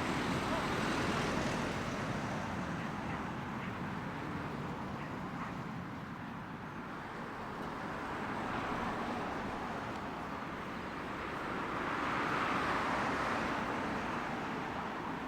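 Steady rushing engine noise, swelling slightly near the start and again about twelve seconds in.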